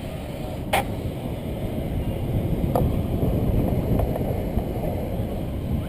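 Mountain bike rolling down a rough downhill trail: a steady low rumble of wind and tyres on the ground, with one sharp knock about a second in and two fainter knocks near three and four seconds, typical of the bike rattling over rocks.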